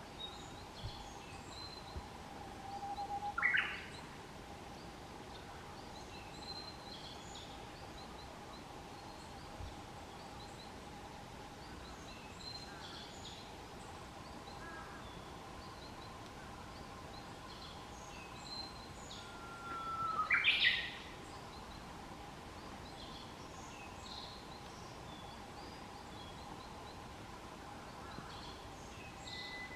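Birds calling: two loud, short calls, one about three seconds in and another about twenty seconds in, among scattered faint high chirps, over a faint steady tone.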